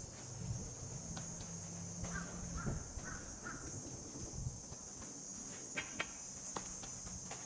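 A crow cawing four times in quick succession, over a steady high-pitched hiss and a few faint clicks.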